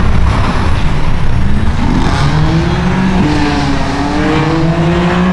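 Car engine accelerating, its note rising from about two seconds in, stepping up near three seconds and climbing on, over a steady low rumble.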